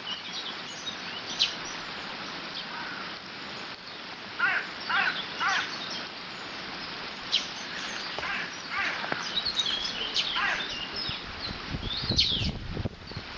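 Steady rush of water flowing over a beaver dam, with small birds chirping and singing throughout. A run of about four louder calls comes a little over four seconds in, and a low rumble comes near the end.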